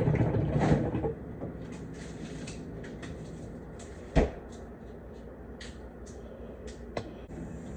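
Rustling, then scattered light clicks and knocks of things being handled, with a sharp knock about four seconds in and another about seven seconds in.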